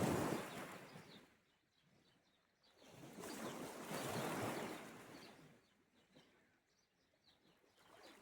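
Sea waves washing onto the shore in slow surges, one fading in the first second and another rising about three seconds in, with faint bird chirps in the quieter gaps.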